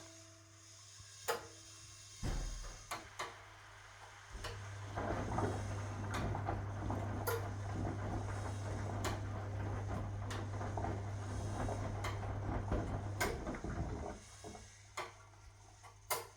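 1961 AEG Lavamat Noris washing machine: a low thump and a few clicks, then the drum motor runs with a steady hum and churning wash for about ten seconds before stopping. Scattered clicks and clunks follow.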